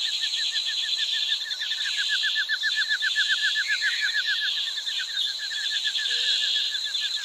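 Wildlife ambience: rapid, evenly repeated chirps, about ten a second, over a steady high insect-like buzz.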